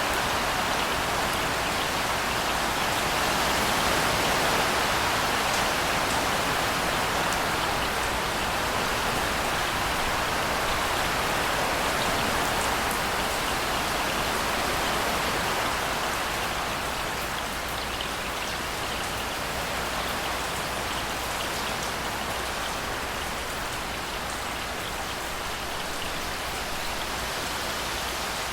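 Steady rain falling in a dense hiss of drops, with a few individual drops ticking out; it eases slightly after the middle.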